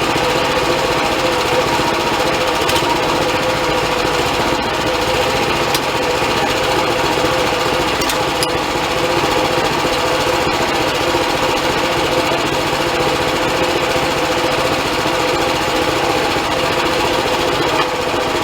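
Band sawmill running steadily under power, a continuous mechanical hum with a held tone throughout.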